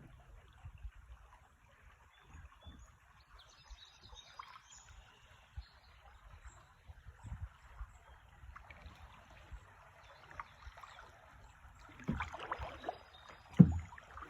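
Faint moving river water with small splashes around a kayak, and a few short bird chirps. A louder splash about twelve seconds in, then a single sharp thump near the end, the loudest sound.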